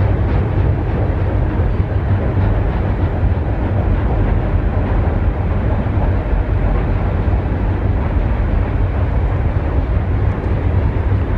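Freight train rolling past, a loud steady rumble of cars on the rails.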